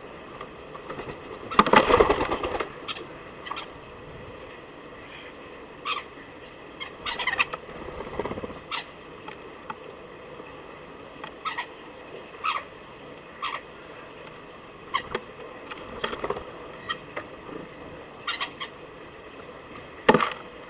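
Irregular short taps and chips from birds and a squirrel feeding at a garden feeder, with a loud clattering burst about two seconds in and another near the end.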